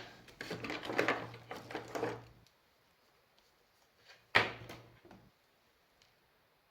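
Objects being handled and shifted on a workbench: rustling and clattering for about two seconds, then a single sharp knock about four seconds in.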